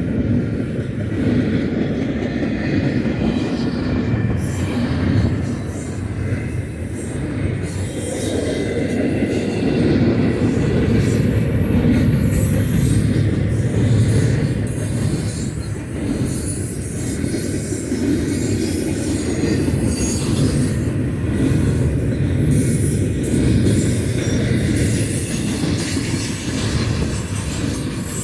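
Double-stack container freight train rolling steadily past: a continuous rumble of steel wheels on the rail, with a brief high wheel squeal about halfway through.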